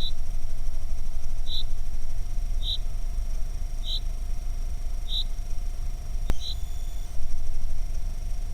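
Male yellowhammer calling: six short high notes, evenly spaced about every second and a quarter, that stop about three-quarters of the way through. Underneath runs a steady low rumble, and there is one sharp click about three-quarters of the way through.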